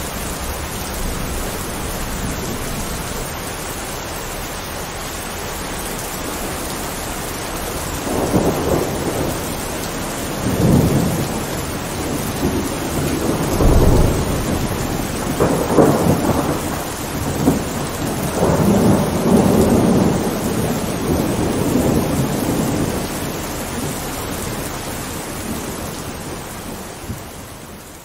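Heavy, steady rain with thunder rumbling in repeated rolls from about a third of the way in until past the middle; the sound fades down near the end.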